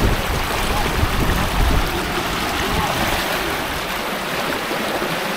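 Waterfall water rushing over rocks in a steady, dense noise, with heavier low rumbling in the first two seconds.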